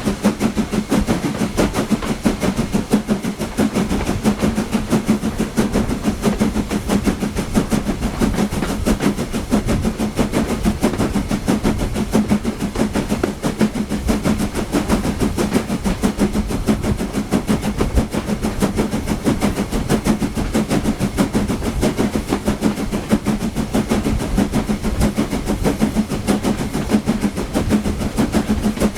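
Steam-hauled train heard from a coach behind LSWR S15 4-6-0 No. 506, running steadily: a continuous rumble with a fast, even beat over a steady hum.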